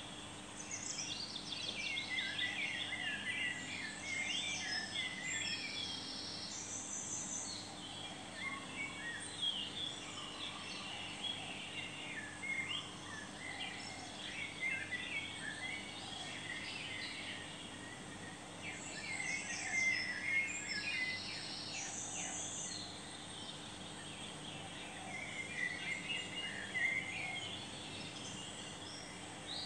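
Birds chirping and twittering in the background, with rapid, busy song phrases recurring throughout; a faint steady low hum runs underneath.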